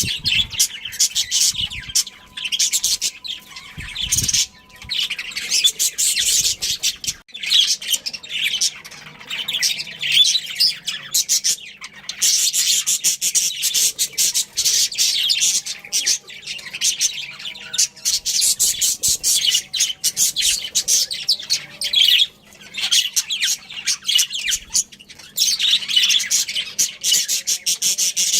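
Budgerigars chirping and chattering, a rapid, continuous stream of high-pitched chirps with brief pauses.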